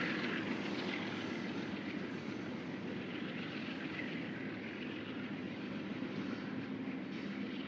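Union Pacific local freight train rolling past: a steady rumble of cars on the rails, easing slightly after a louder moment just before and then holding even.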